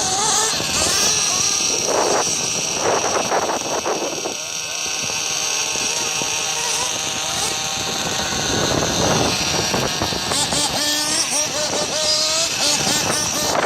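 Nitro RC car engine running at high revs, a high-pitched whine whose pitch wavers up and down, with louder surges several times as it is throttled up.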